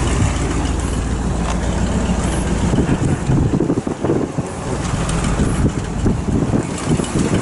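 Truck engine running at low speed, heard from inside the cab, with wind buffeting the microphone from about halfway through.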